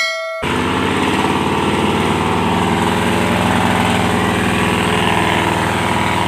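Truck engine running steadily and loudly while the truck is bogged down in mud. A short edited transition sound cuts off abruptly in the first half-second.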